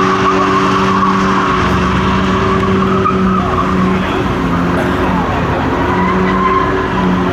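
A car doing a burnout: the engine is held at high revs with a steady note while the spinning rear tyres squeal and screech against the pavement.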